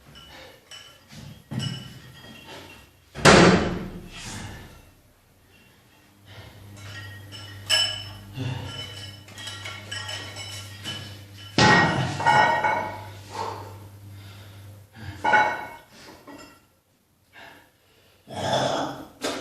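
Gym weights clanking and thudding, about five heavy knocks a few seconds apart, each ringing briefly, with a steady low hum underneath in the middle stretch.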